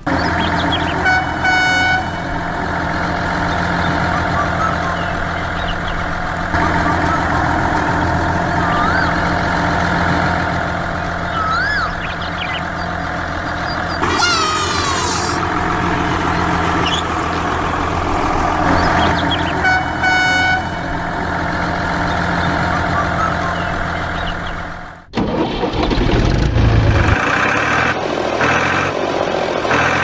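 A truck engine runs steadily, and a horn honks twice, about a second in and again about twenty seconds in. Near the end the engine sound cuts off abruptly and a different engine sound, with a pulsing rhythm, takes over.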